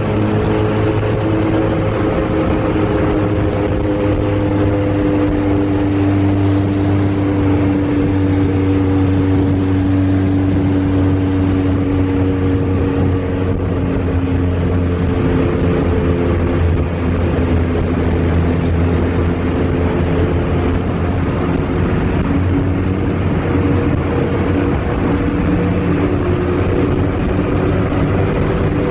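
A large 1970s motorcycle engine running at a steady speed, its pitch drifting slightly lower through the middle.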